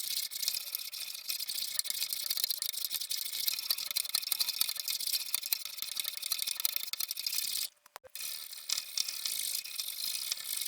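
A hand tool working wood, making a dense, rapid scratchy rasping. It breaks off briefly about eight seconds in, resumes, then stops sharply at the end.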